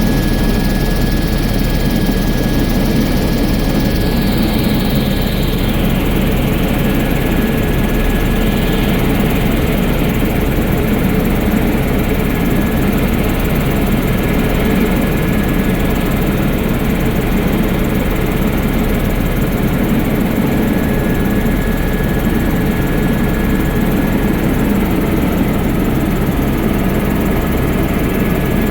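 Sightseeing helicopter in flight: a steady, loud drone of engine and rotor with a thin, constant high whine over it.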